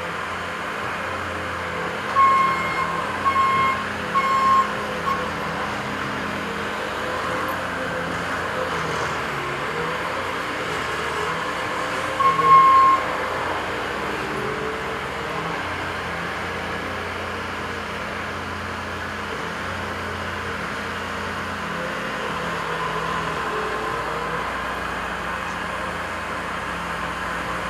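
Diesel construction machinery running steadily while loading a dump truck, the engine pitch wavering with the work. A reversing alarm beeps three times a couple of seconds in and once more around twelve seconds.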